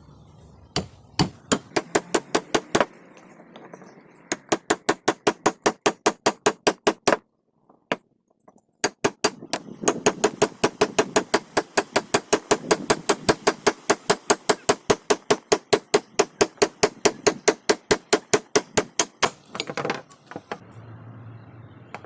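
Hammer striking metal in fast, even runs of about five or six blows a second, with short pauses between the runs. This is typical of hammer work on the old axe head during its restoration.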